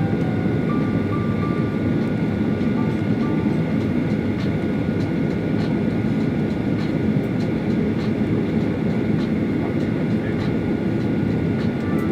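Steady rumble of a jet airliner's engines and rushing air heard inside the passenger cabin on the ground around takeoff, even in level throughout, with a few faint ticks.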